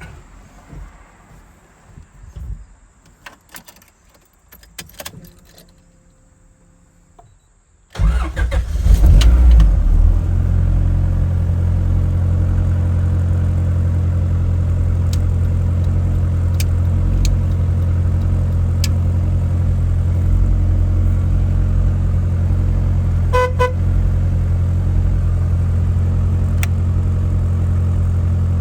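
A few clicks, then a Honda VTEC engine in a Mini starts from cold about a third of the way in. It flares for a couple of seconds and settles into a steady idle. Two short beeps sound about four-fifths of the way through.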